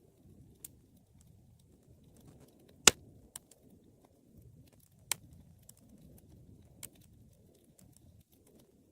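Wood fire burning in a fireplace: a low, steady rumble of flames with scattered small crackles and a handful of sharp pops, the loudest pop about three seconds in.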